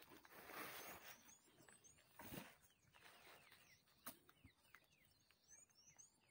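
Near silence, with faint high bird chirps in two short runs, about a second and a half in and again near the end, and a few soft rustles and taps.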